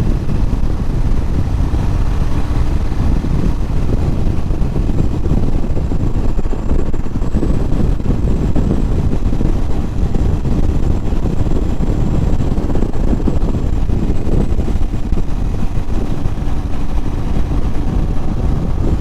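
Royal Enfield Himalayan's single-cylinder engine running steadily as the motorcycle rides along, with wind rumble on the microphone.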